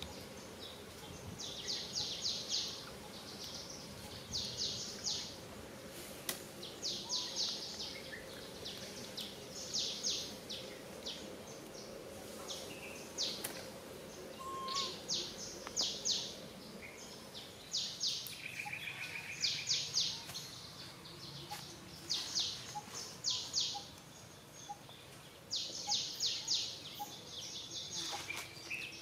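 Birds chirping outdoors: short bursts of rapid high-pitched notes, repeating every two to three seconds, with a lower trill a little past halfway, over a steady background hum.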